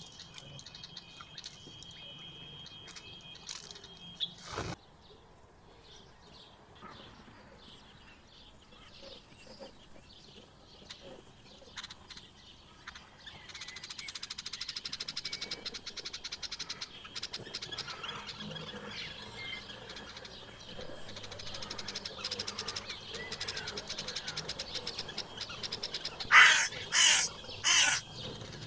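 Wild birds chirping and singing, livelier from about halfway through, with three loud, harsh, crow-like caws near the end.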